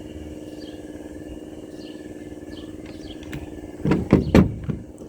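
A motor running with a steady hum, and a few loud, low thumps about four seconds in.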